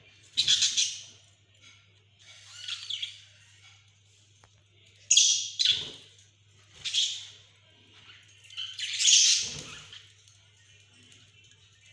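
Pet budgerigars chirping and squawking in short separate bursts, about five calls a second or two apart, over a steady low hum.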